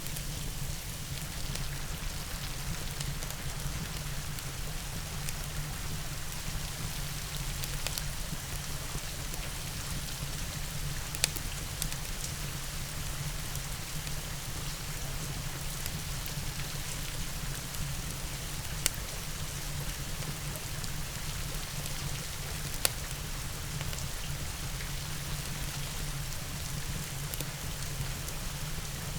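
Steady rain falling, mixed with a wood fire crackling in a fireplace, with a few sharp pops standing out from the rain.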